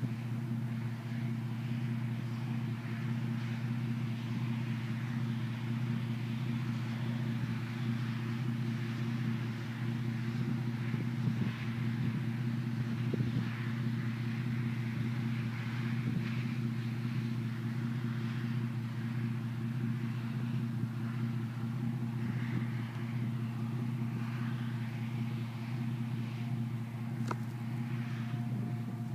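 A steady low mechanical hum, like an idling vehicle, with an uneven rushing noise over it. There is a single sharp click near the end.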